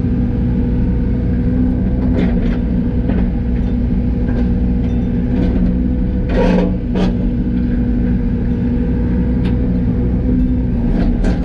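Yanmar ViO80 mini excavator's diesel engine running steadily at working speed. Scattered knocks, and a louder scraping clatter about six and a half seconds in, as the bucket works through rock and the old culvert pipe.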